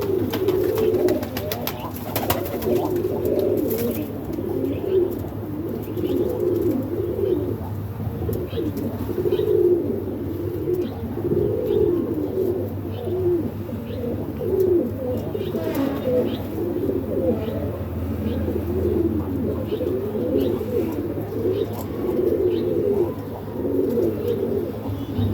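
Many domestic pigeons cooing together in a continuous, overlapping chorus. Short high chirps are heard throughout.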